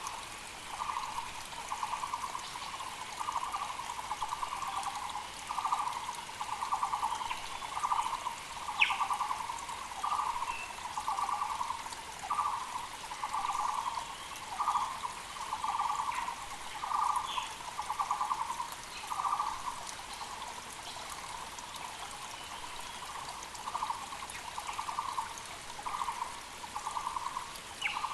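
Taiwan barbet (Müller's barbet) calling, a long run of evenly repeated low notes, about one to two a second, with a brief lull about two-thirds through. A mountain creek runs steadily underneath, and other birds give a few short, higher chirps.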